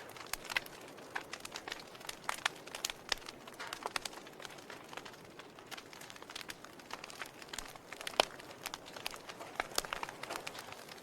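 Wood logs burning in a fireplace, crackling with irregular sharp pops and snaps over a soft hiss; the loudest pop comes about eight seconds in.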